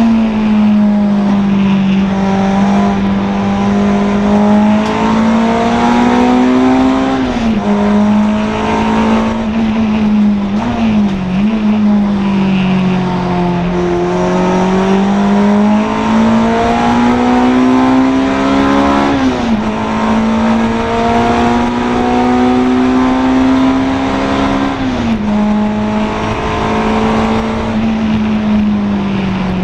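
Honda Integra DC2 race car's four-cylinder engine running at high revs at full race pace, its pitch climbing slowly in each gear and dropping sharply about four times at gear changes.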